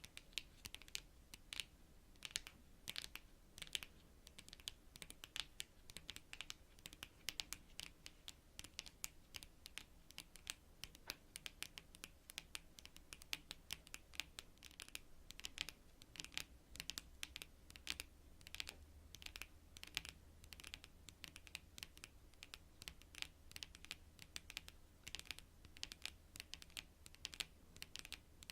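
Long natural fingernails tapping on cards: light, crisp clicks in quick irregular runs, several a second.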